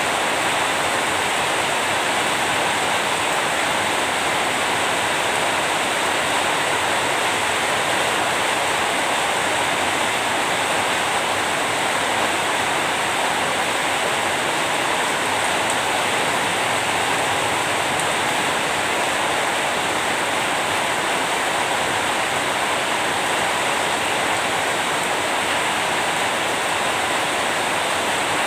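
Steady, heavy rainfall: a dense, even hiss of rain with no breaks or distinct drops.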